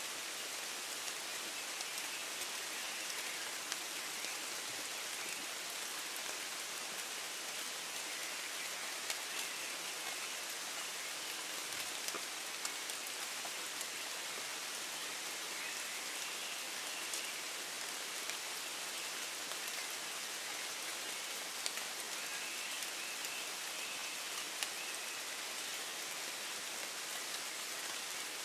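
Steady gentle rain falling in woodland: a continuous even hiss with scattered individual drops ticking louder close by.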